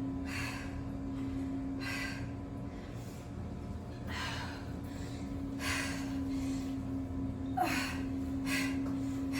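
Hard, gasping breaths of a woman doing push-ups, one every second and a half or so, about six in all, over a steady hum.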